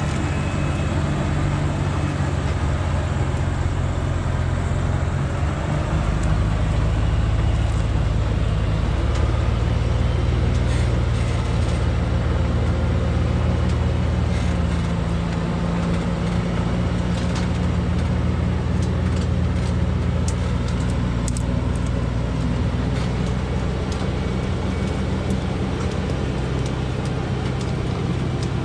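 A timber truck's engine running steadily under load, its pitch shifting a little about six seconds in and again around fifteen seconds.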